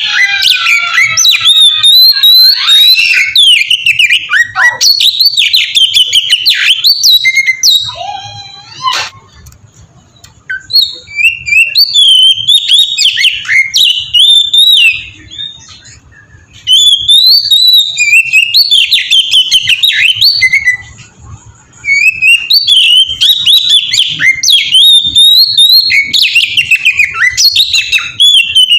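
Oriental magpie-robin (kacer) singing long, loud runs of rapid, varied whistled phrases, breaking off briefly three times.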